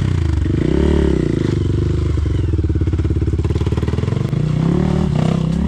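Off-road motorcycle engine revving up and dropping back about a second in, then running at low revs with a steady pulse and picking up again near the end, as the bike is eased over a rocky trail section.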